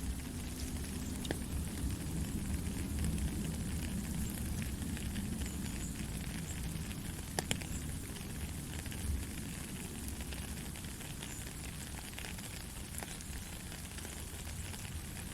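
Steady rainfall in a forest: an even hiss of falling rain with a dense patter of drops and one sharper tick about seven seconds in.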